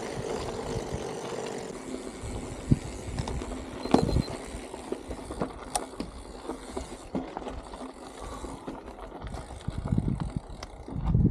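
Bicycle being ridden, with wind buffeting the microphone and a few sharp clicks and knocks from the bike.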